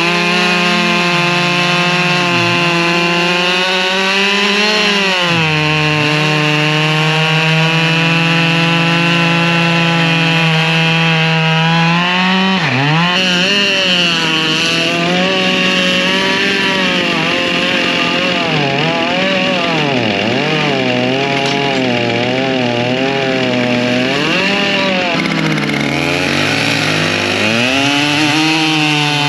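Husqvarna 592 XP two-stroke chainsaw running near full throttle while cutting firewood, its engine pitch sagging under load and climbing back several times as it bites into and clears the wood, with a wavering stretch through the middle.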